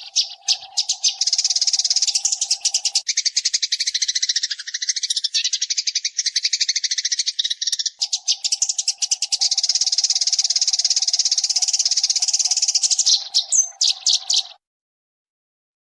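Eurasian tree sparrow chattering in a very fast, dense run of chirps, with a faint steady low tone beneath parts of it; the chatter stops about a second and a half before the end.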